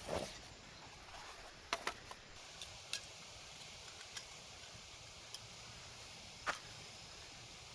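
A few faint, short clicks and knocks at irregular intervals over a quiet background, the loudest right at the start.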